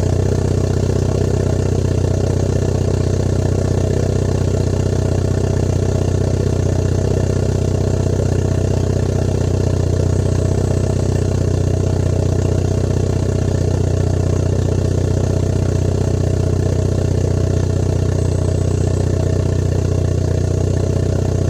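Kia Cerato Koup's 1.6-litre naturally aspirated four-cylinder idling steadily after a cold start, heard through an aftermarket exhaust with a 4-2-1 header, hi-flow cat, resonator and valvetronic muffler.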